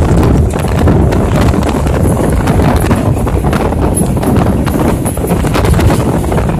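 Train running at speed, heard from on board: wheels clattering rapidly over the rails over a loud steady rumble.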